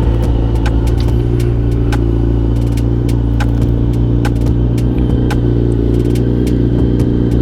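Sport motorcycle engine idling steadily, with light clicks every half second or so.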